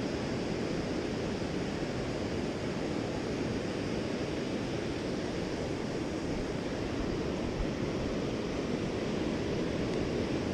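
Steady rush of ocean surf washing onto a sandy beach, with wind on the microphone.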